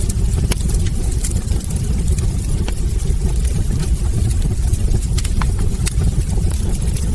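Wood fire burning in a fireplace: a steady low roar of flames with frequent sharp crackles and small pops from the burning logs.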